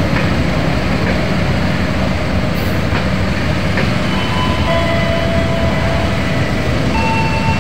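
Passenger train coaches rolling past close by, with a steady loud rumble and clatter of wheels on rails. Thin, steady squealing tones join in about halfway through.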